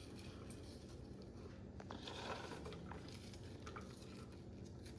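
Faint soft patter and light clicks of onions being dropped and spread into a slow cooker.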